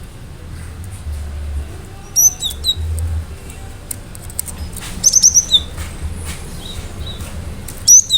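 Cinereous tit (gelatik batu) calling: three bursts of sharp, high-pitched notes, the last and loudest just before the end, over a low background rumble.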